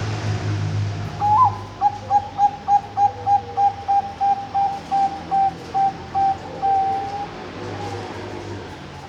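Bangkok-strain zebra dove (perkutut) singing its front phrase: one rising opening note, then a quick run of short, even coos at about four a second, slowing slightly and ending on one longer note.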